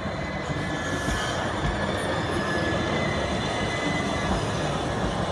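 Southern Class 377 electric multiple unit running past close by, a steady loud rumble of wheels on rail and rushing air, with a faint high-pitched squeal or whine held over it.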